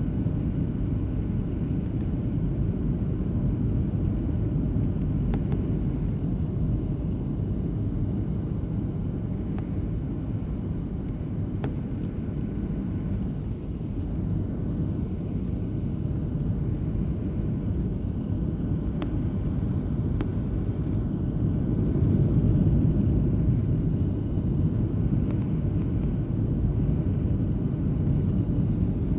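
Airliner cabin noise on final approach in gusty wind: a steady low rumble of engine and airflow, rising for a few seconds about two-thirds of the way in as engine power is increased. A few faint clicks sound in the cabin.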